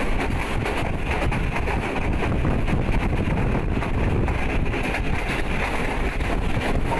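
CRRC Tangshan passenger coach running at speed: a steady rumble of wheels on the track with air rushing past and wind on the microphone.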